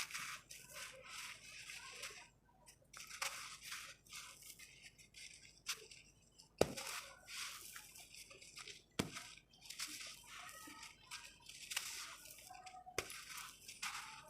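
Dry red sand-cement crumbling and crunching in uneven spells of gritty crackling, with three sharp snaps spread through.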